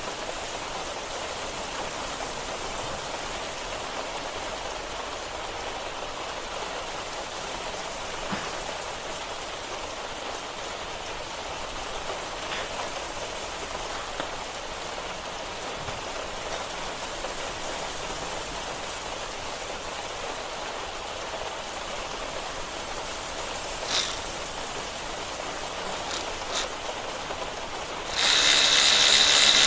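A steady, even hiss with a few faint clicks. Near the end a ratchet wrench starts cranking, much louder, with a rapid rattling of its pawl.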